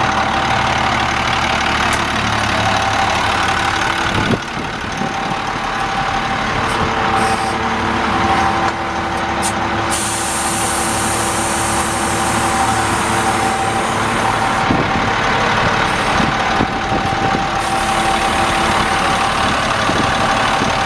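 International DT466 inline-six diesel in a 2002 International 4900 dump truck, running steadily with a constant high whine over the engine note. The low engine sound changes about four seconds in.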